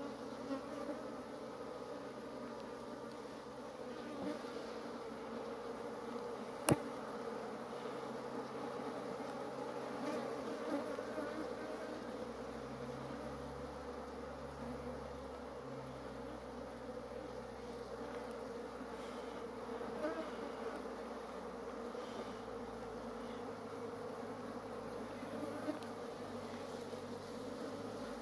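Honey bees buzzing steadily in a dense hum around an opened hive. A few light knocks sound through it, and one sharp click comes about seven seconds in.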